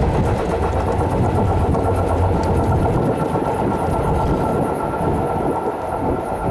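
Passenger train rolling past at close range: a steady, loud rumble of wheels on rail, with a thin steady whine joining about two seconds in.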